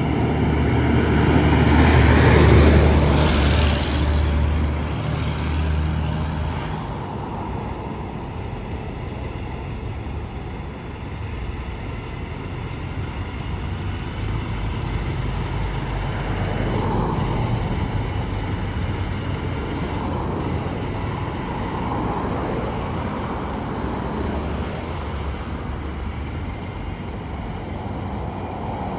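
Highway traffic with a heavy truck passing close by, loudest about two to three seconds in, its low engine drone fading away by about seven seconds. Steady tyre and road noise follows, with a few more vehicles going past.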